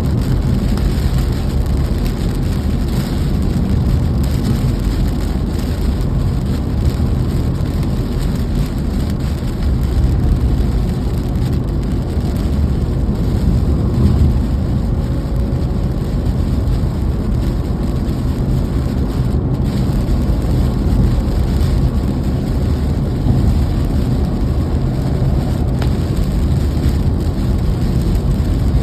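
Steady rain, heard together with a constant low rumble.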